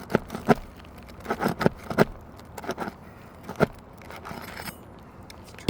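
A metal roofing tool, a roof snake (shingle ripper), knocking and scraping under an old asphalt shingle as it works at a stubborn nail: several sharp metallic knocks at uneven intervals.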